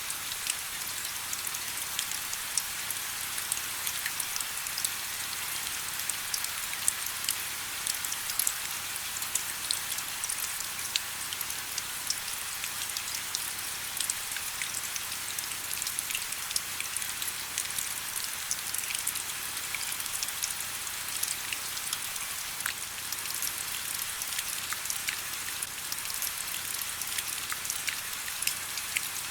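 Steady rain: an even hiss with many small, distinct drops ticking through it.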